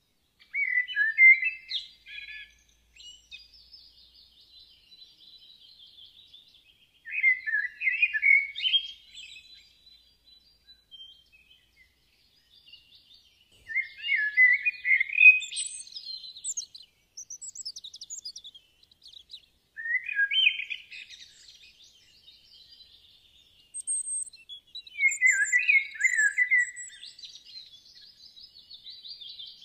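Songbird singing: five warbling song phrases about five to six seconds apart, with softer chirps and twitters between them.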